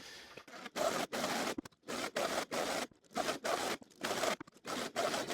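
Oversized electric power planer cutting the weathered surface off an oak beam, heard as a quick run of short, harsh cutting bursts with brief breaks between them.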